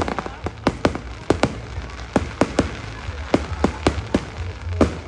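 Fireworks display: a rapid, irregular string of sharp bangs and crackles, about three a second, over a low rumble.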